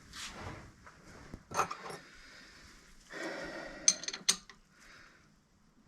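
Metal tools and A/C line fittings being handled: light rustling with a few sharp metallic clicks and clinks, three of them standing out.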